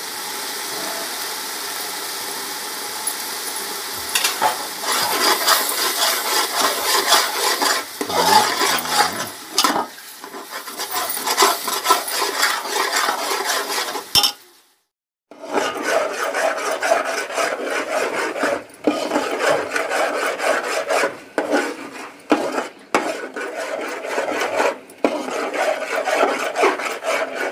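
Onion and mustard paste frying in hot mustard oil in an aluminium pot, sizzling steadily at first, then stirred with a metal ladle in repeated scraping strokes against the pot. The sound cuts out for about a second midway, then the scraping and stirring resume.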